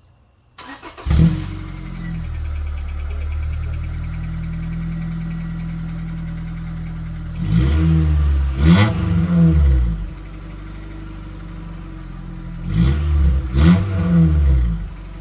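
1998 Honda Accord engine with the muffler removed, cranked briefly and catching about a second in, then running at a raised idle. It is blipped through a few quick revs about halfway through, drops back to a lower idle, and is revved a few times again near the end.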